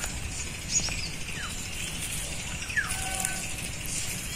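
Birds calling: several short chirps that fall in pitch, over a steady outdoor hiss.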